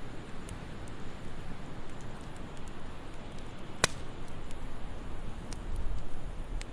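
Wood fire crackling in a fireplace: a steady low hiss and rumble with scattered small ticks and one sharp pop about four seconds in.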